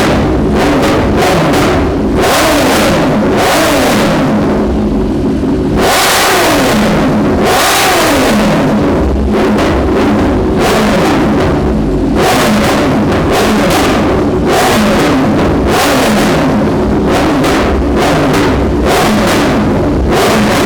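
BMW S1000R inline-four engine revved over and over from idle, each throttle blip rising and falling quickly in pitch, through a decat pipe and SC Project slip-on exhaust.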